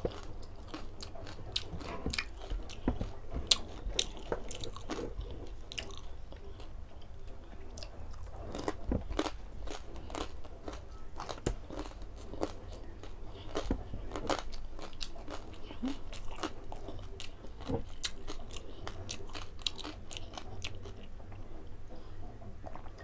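Close-miked chewing of crispy deep-fried pork belly (lechon kawali), with repeated sharp crunches of the crackling skin at an irregular pace.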